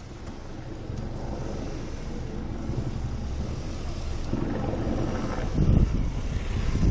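Rain-swollen canal water rushing past in a steady low rumble that grows louder, with uneven low buffeting about two-thirds of the way in.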